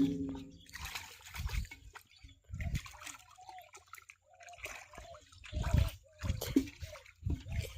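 Shallow water splashing and dribbling in irregular bursts, with a few dull low thumps.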